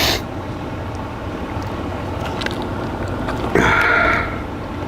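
A threaded plumbing fitting wrapped in Teflon tape being screwed together by hand, with a short grating scrape of the threads about three and a half seconds in, over a steady low background hum.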